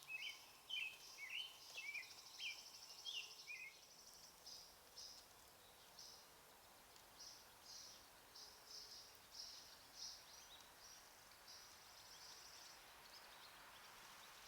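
Faint songbirds singing: a run of short down-slurred whistled notes, about two a second, stops about four seconds in, alongside higher chirps and short trills.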